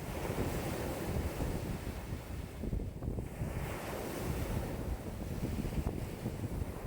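Lake waves breaking and washing ashore in a strong wind of about 5 m/s, with wind buffeting the microphone in an uneven low rumble. A wave's hissing wash swells about halfway through.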